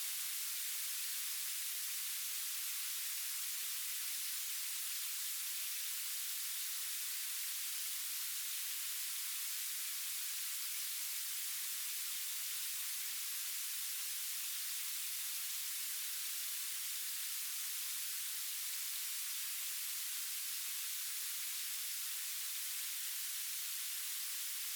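A steady, even high hiss with no breaks or separate sounds in it.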